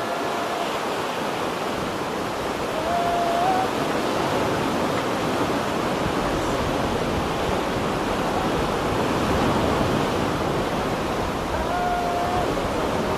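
Steady rushing noise of wind and a choppy sea with waves breaking, with no let-up. A few short, faint high tones sound over it: about half a second in, around three seconds in, and near the end.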